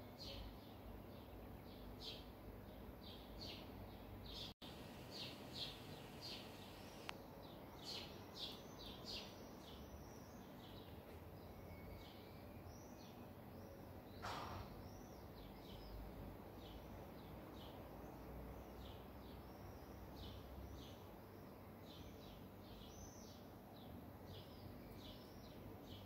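Small birds chirping faintly: short high chirps repeated in quick series, over a low outdoor background noise. One brief louder sound about halfway through.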